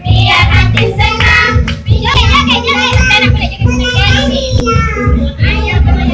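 A child singing a dangdut pop song over a loud backing track with a heavy, regular bass beat.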